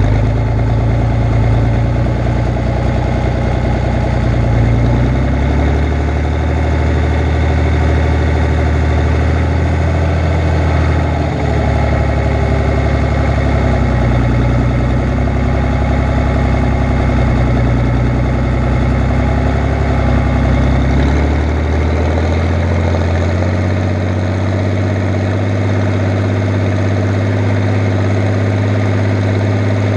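Fiat 110-90 tractor's diesel engine running steadily while ploughing. Its note shifts a few times and settles a little higher about three quarters of the way through.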